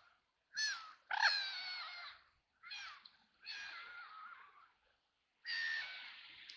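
Ducks quacking: five harsh, nasal calls with short silences between, the second and fourth drawn out to about a second each.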